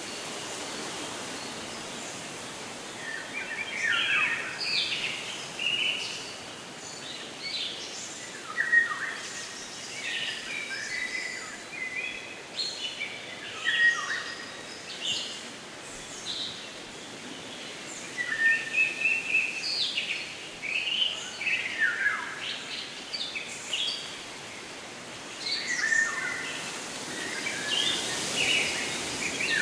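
Songbirds chirping and singing in quick bursts of short falling notes, coming in clusters every few seconds over a steady background rush.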